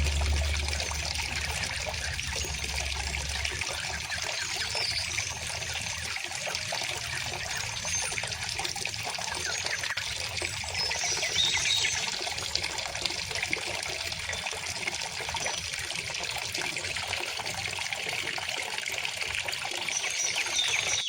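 River water flowing and trickling steadily, with a low rumble in the first few seconds. A few faint bird chirps come through now and then, most clearly around the middle.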